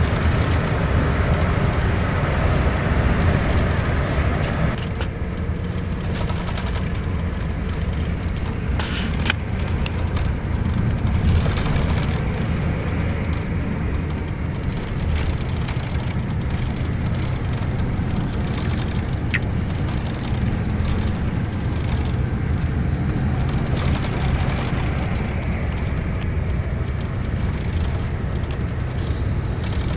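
Cabin noise aboard a Scania K410iB double-decker bus on the move: a steady low engine and road rumble, with a higher road hiss that eases off about five seconds in.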